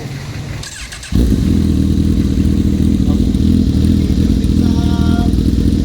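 Honda CB1000R's inline-four engine running through an Akrapovic exhaust with the catalytic converter removed. After a brief high-pitched whir, it sets in suddenly and loudly about a second in, then runs steadily with a deep, low exhaust note.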